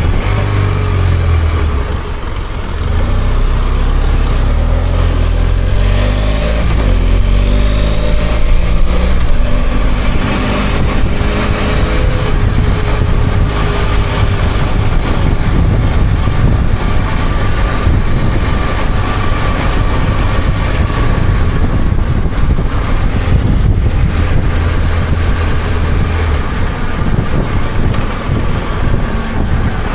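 BMW F800GS motorcycle's parallel-twin engine running under way, with a steady rush of wind and road noise. The engine pitch rises and falls several times between about four and twelve seconds in.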